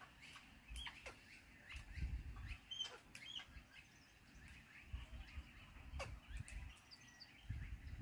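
Faint bird chirps and short calls scattered through, some sweeping quickly down in pitch, over an intermittent low rumble.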